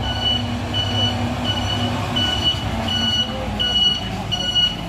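Garbage truck's warning beeper sounding a steady, evenly repeated high beep, about three beeps every two seconds, over the low running of the Isuzu FVR's diesel engine.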